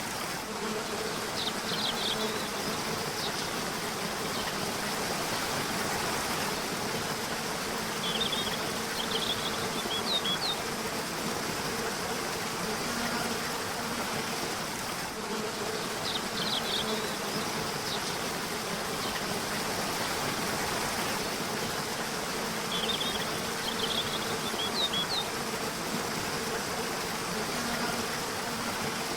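A river or stream flowing steadily, with short clusters of high bird chirps every several seconds. A low buzzing hum comes and goes.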